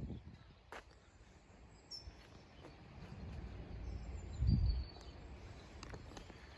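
Outdoor ambience: a low, uneven rumble of wind on the microphone, with a stronger low gust about four and a half seconds in and a few faint bird chirps.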